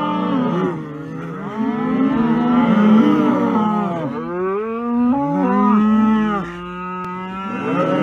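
Cattle mooing repeatedly: a series of long, drawn-out calls that rise and fall in pitch, one after another.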